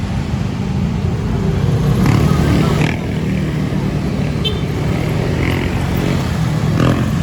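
City road traffic, with cars and motorcycles running close by: a steady engine rumble.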